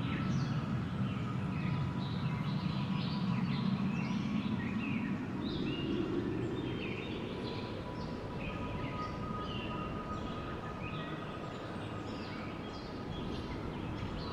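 Wind blowing, swelling through the first few seconds and then easing off. Many small birds chirp throughout.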